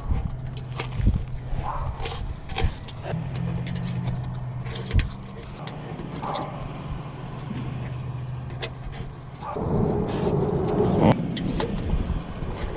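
Steady low engine-like hum with scattered sharp clicks and knocks, and a louder rushing noise for a second or so near the end.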